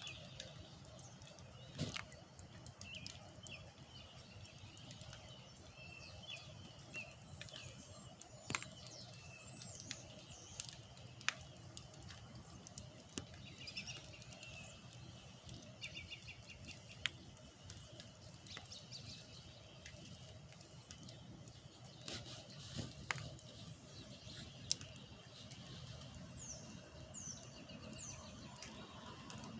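Small birds chirping and twittering, ending in three quick falling whistles near the end, over a steady low hum, with scattered sharp clicks.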